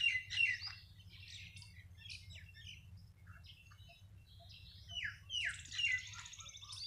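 Small birds chirping and calling, a busy mix of short high chirps and trills. The calls are quieter for a few seconds, then a louder run of falling calls and a trill comes about five seconds in.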